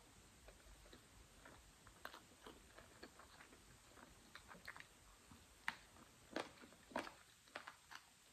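Close-miked mouth sounds of a person eating chicken: soft wet chewing and lip smacks, small clicks scattered throughout, with a few louder smacks in the second half.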